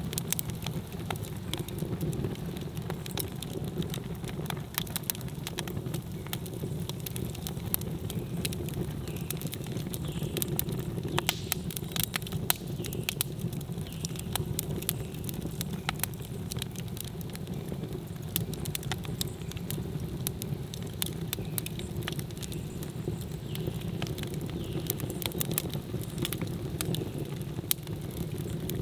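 Wood campfire burning: a steady low roar with frequent sharp crackles and pops throughout.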